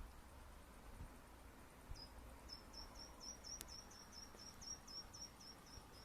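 Faint natural ambience in which, about two seconds in, a run of about fifteen high, quick chirps begins, three to four a second, and goes on for about four seconds. A faint high pulsing runs underneath, and a single sharp click falls midway.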